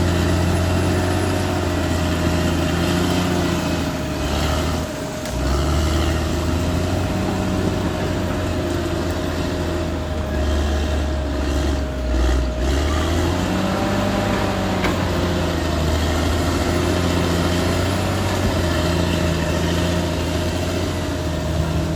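Caterpillar D6R XL bulldozer's diesel engine working, its pitch rising and falling as the load changes, with a steady whine over it. The sound eases briefly about five seconds in.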